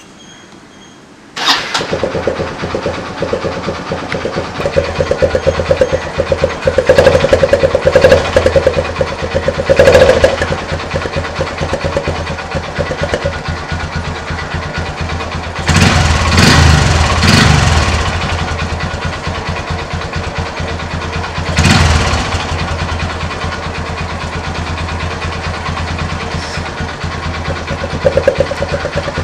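Small commuter motorcycle engine, its exhaust blowing past an empty aluminium drink can set at the silencer outlet, starting about a second and a half in and then idling. The throttle is blipped several times, the sharpest revs near the middle, before it settles back to idle.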